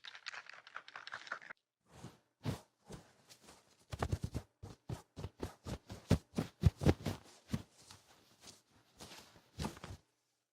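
ASMR ear-cleaning sounds: hard, quick scratching strokes rubbing against a microphone's ear, loud and close. It opens with about a second and a half of soft hissy rubbing, then after a short pause comes a fast, uneven run of scratches.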